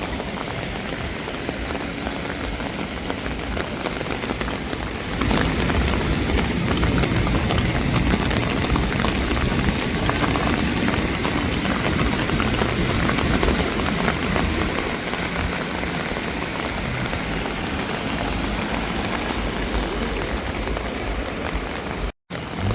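Heavy rain falling steadily, growing louder about five seconds in. It cuts out for a moment near the end.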